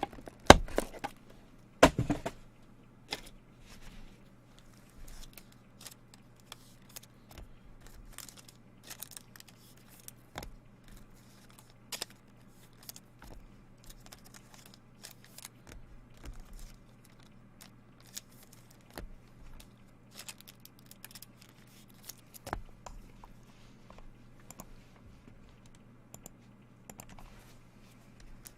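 Trading card packs and cards being handled and opened: scattered clicks, crinkles and rustles of wrappers and cardboard, with two louder knocks in the first two seconds. A low steady hum runs underneath.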